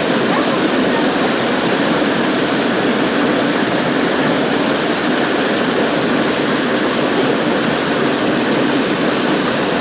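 A waterfall pouring steadily into a river pool: an even, unbroken rush of falling water.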